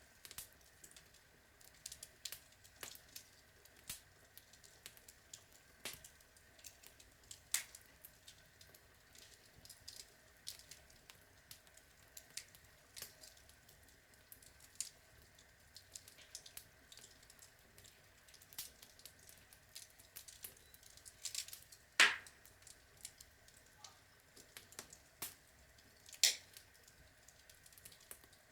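Outdoor log fire crackling: a steady faint hiss with scattered sharp pops and snaps from the burning logs, the loudest pop about two-thirds of the way through.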